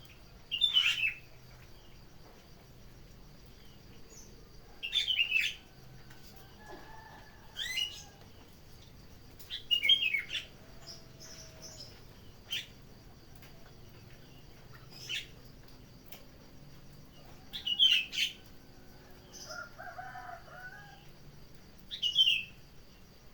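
A bird calling out of doors in short, sharp chirps, seven times at intervals of about four or five seconds. Under it run a steady high insect trill and a few fainter, lower calls from other birds.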